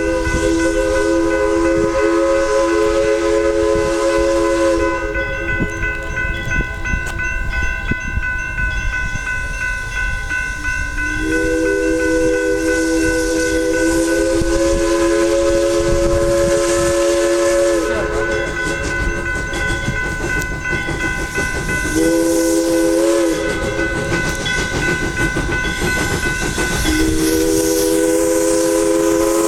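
Steam locomotive chime whistle blowing the grade-crossing signal, long, long, short, long, as the engine crosses a highway. Its three-note chord rises slightly in pitch through each blast, over the steady rumble and wheel clatter of the moving train.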